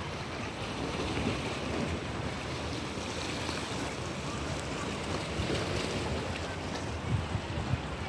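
Sea waves washing, with wind buffeting the microphone; a few louder gusts near the end.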